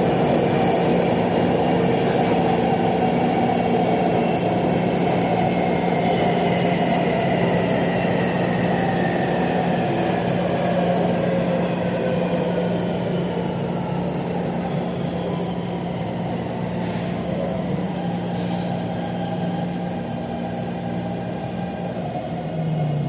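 Metro train running, a steady rumble under several whining tones that slowly fall in pitch while the overall noise eases down: the train slowing.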